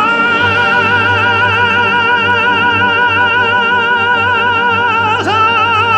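Operatic male tenor singing a Russian folk song, holding one long note with a wide vibrato over instrumental accompaniment. Just after five seconds in, the voice dips and swoops up into a new held note.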